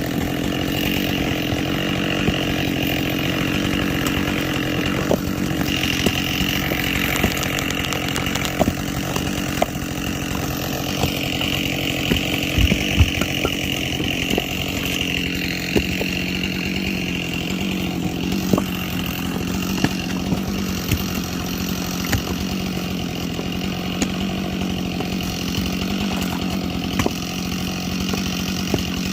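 Chainsaw running at full throttle while bucking logs from a pile, its engine note sagging and recovering as it works through the cuts, with scattered small knocks of wood.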